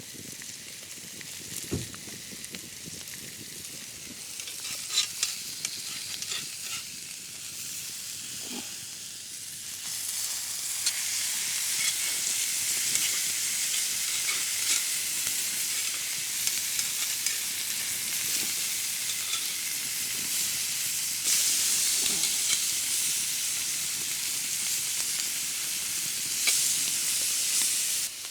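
T-bone steak sizzling over a wood fire: a steady frying hiss with a few sharp pops in the first half, growing louder about ten seconds in and again about two-thirds of the way through.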